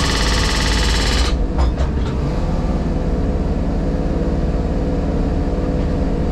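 JCB Pothole Pro heard from inside its cab. A loud, harsh noise from its attachment working the road surface cuts off about a second in, a few clicks follow, and the diesel engine runs on steadily underneath.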